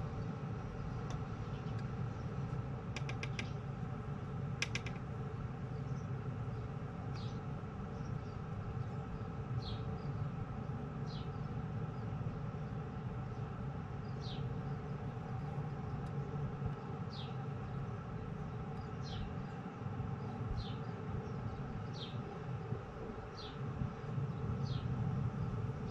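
A bird repeats a short, high, downward chirp about every second and a half over a steady low rumble. There are two quick ticking trills about three and five seconds in.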